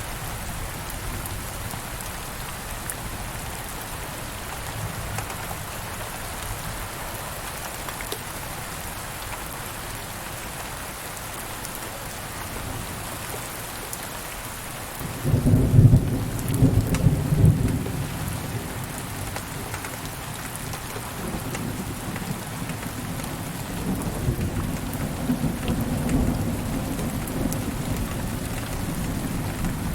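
Steady rain falling, with a clap of thunder breaking out suddenly about halfway through and rumbling for a few seconds, then a second, softer roll of thunder near the end.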